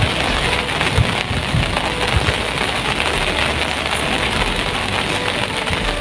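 Heavy steady rain hissing down during a typhoon, with a few short low thumps.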